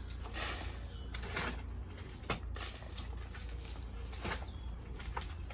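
Compost and vermiculite potting mix being scooped and tipped into a planting trough: a soft gritty rustle about once a second, over a steady low hum.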